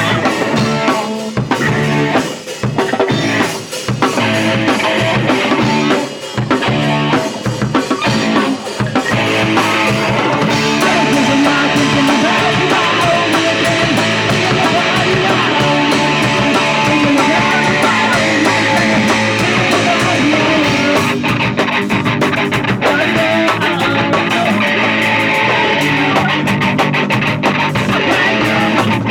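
Punk rock music: electric guitar and a drum kit playing, with a few short stop-start breaks in the first ten seconds and then steady playing.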